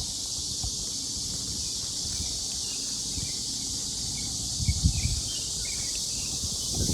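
Steady high hiss of outdoor ambience, with a short cluster of low thumps about five seconds in.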